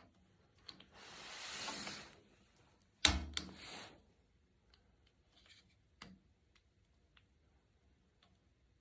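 Handling noises: a rustle lasting about a second, then a sharp knock about three seconds in followed by a brief scrape, and a few scattered clicks.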